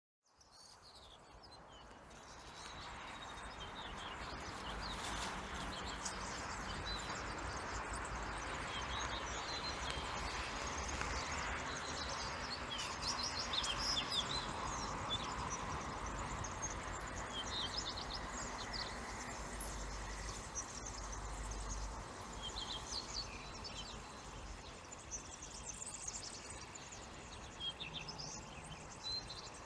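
Many small songbirds chirping and singing, with short overlapping calls and trills, over a steady hum of background road traffic. The sound fades in over the first few seconds.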